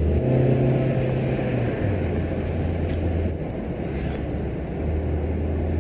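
Car engine hum and tyre and road noise heard from inside the moving car's cabin; the low engine tone steps down in pitch about two seconds in.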